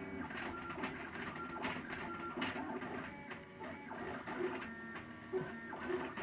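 MakerBot Thing-O-Matic 3D printer running a print, its stepper motors whining in short tones that jump from pitch to pitch as the print head moves, with faint ticks.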